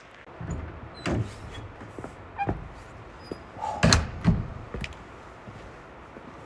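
A pit toilet door being handled and shut: a low rumble, then several knocks and thuds. The loudest pair of bangs comes about four seconds in.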